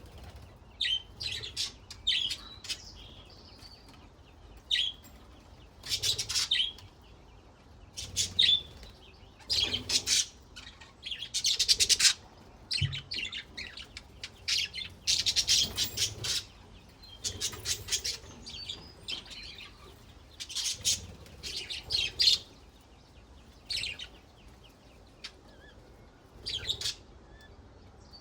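Budgerigars chirping and chattering in short bursts, one cluster after another with brief pauses between.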